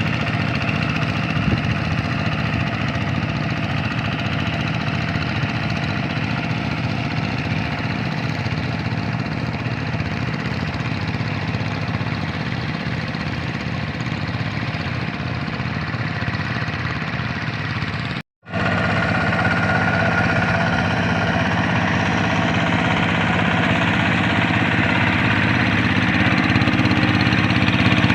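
Single-cylinder Kubota RD 85 DI-2S diesel engine of a two-wheel hand tractor running steadily. It drops out for a moment about two-thirds of the way through and then runs on a little louder.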